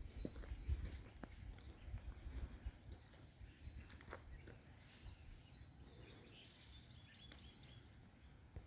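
Faint outdoor birdsong: scattered short chirps and whistles from several small birds. Low thuds and rumble during the first couple of seconds fade out.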